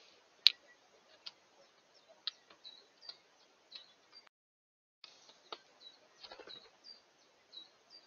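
Birds feeding at a plastic seed dish: sharp taps of beaks striking seed and dish, the loudest about half a second in, with short, high chirping calls repeated every half second or so. A short gap of silence just past four seconds.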